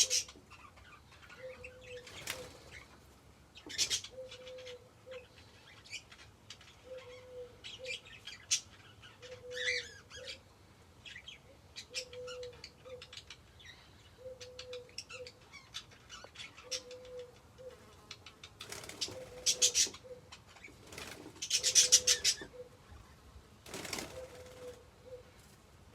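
A dove cooing over and over, one short low coo about every two and a half seconds, while caged birds flutter their wings in several brief bursts, the loudest about three quarters of the way through. Faint budgerigar chirps come in here and there.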